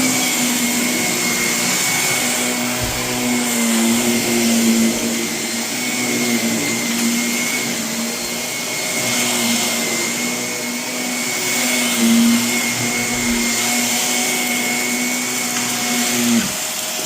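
Vacuum cleaner running steadily over carpet with a high whine, sucking up gritty renovation debris. The motor note drops away near the end.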